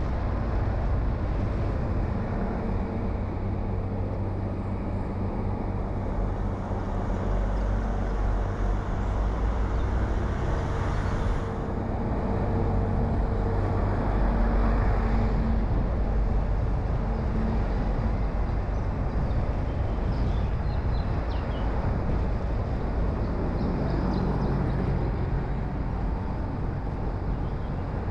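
A car being driven, with a steady engine hum and road noise throughout. The sound swells louder for a few seconds about halfway through, and a few light clicks come later.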